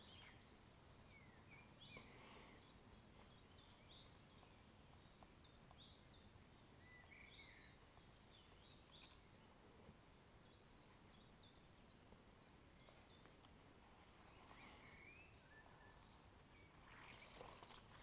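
Faint, scattered bird chirps and short calls over a quiet, steady background hiss, with a brief louder hissy patch near the end.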